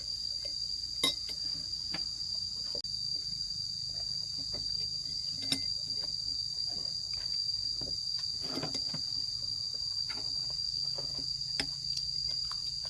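Insects chirring in one steady high-pitched drone, with a few short clinks of chopsticks or spoons against bowls during a meal.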